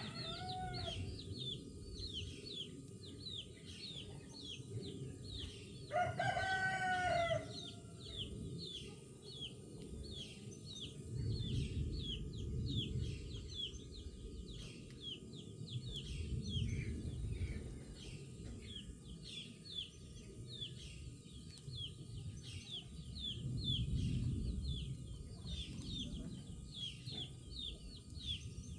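A rooster crows once about six seconds in, a call of about a second and a half, after the tail of another crow at the very start. Small birds chirp rapidly and steadily throughout.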